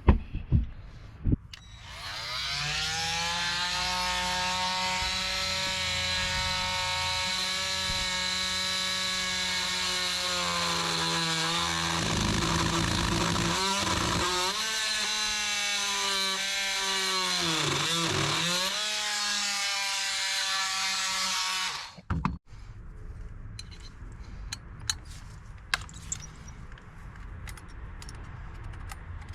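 Oscillating multi-tool making a plunge cut into dry wood: it starts about two seconds in, rising in pitch as it comes up to speed, runs steadily, dips in pitch a few times as the blade loads up in the wood, and cuts off suddenly near the end.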